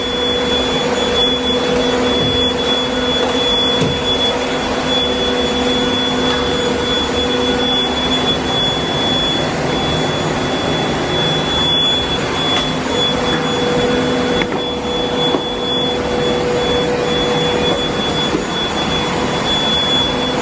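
Deerma cordless vacuum cleaner running steadily: a loud, even rush of air with a constant high whine from its motor.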